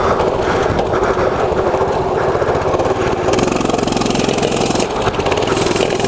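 Small single-cylinder mini bike engine running steadily under way, with a louder hiss of wind and riding noise for about a second and a half in the middle.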